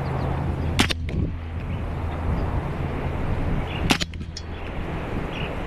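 .25-calibre Hatsan Blitz PCP air rifle firing twice, about three seconds apart, each shot a short, sharp crack.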